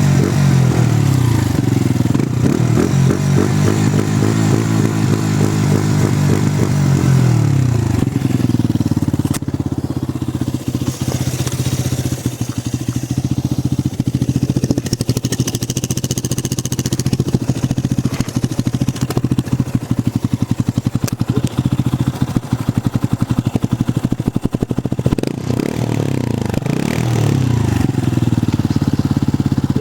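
Benelli 125S motorcycle's single-cylinder engine, on its stock exhaust, revved several times over the first eight seconds or so. It then settles to an even idle, and revs again near the end.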